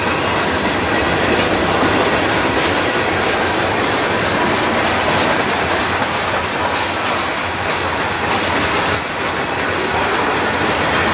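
Freight train's covered hopper cars rolling past close by: a loud, steady noise of steel wheels on rail, with repeated clicks as the wheels cross the rail joints.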